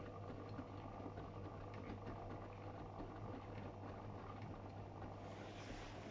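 Matura Sigma 9260 washing machine running, with a steady motor hum. A hiss swells near the end.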